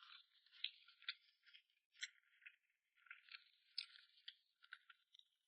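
Faint chewing of soft-shell turtle, with irregular small wet clicks and smacks from the mouth.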